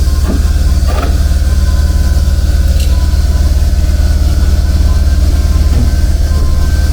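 A machine motor running steadily, with a loud low hum and a fast, even throb.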